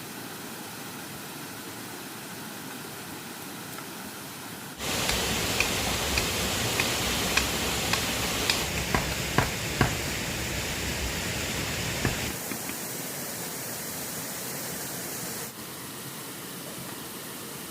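Steady rushing of river water. It is suddenly louder between about five and twelve seconds in, and a dozen or so sharp clicks and knocks sound over it during that stretch.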